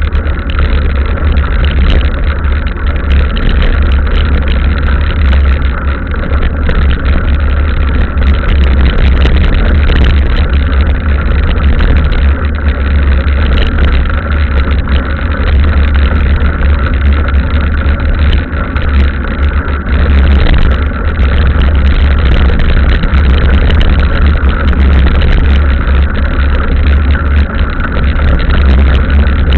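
Mountain bike being ridden on a trail: a loud, steady low rumble of wind buffeting and rough rolling on the bike-mounted camera's microphone.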